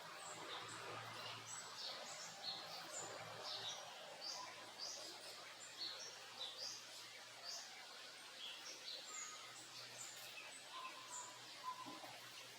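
Backyard songbirds chirping: many short, high calls from several birds overlapping throughout, over a steady background hiss.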